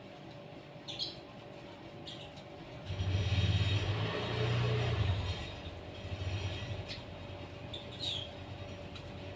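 A vehicle passing nearby: a low rumble that swells about three seconds in and fades after about three seconds. Short high chirps from small birds come before and after it.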